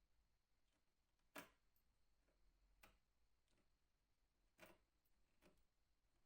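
Near silence: faint room tone broken by a handful of short, sharp clicks at irregular intervals, the loudest about one and a half seconds in.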